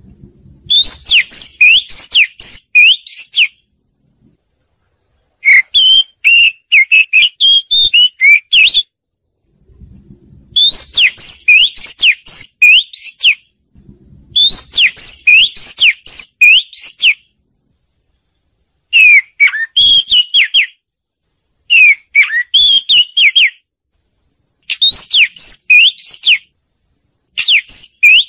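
Oriental magpie-robin singing: bouts of loud, quickly varied whistled notes a few seconds long, with short silent gaps between them.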